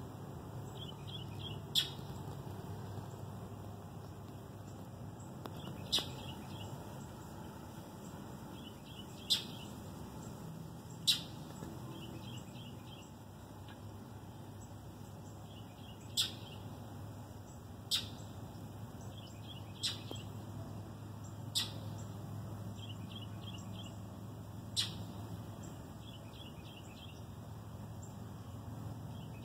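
Birds chirping: about nine sharp single chirps a few seconds apart, with short runs of quick, softer chirps between them, over a steady low hum.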